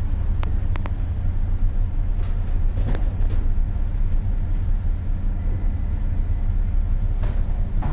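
Steady, heavy low rumble of a ship labouring in a cyclone, with a few sharp knocks and rattles scattered through it.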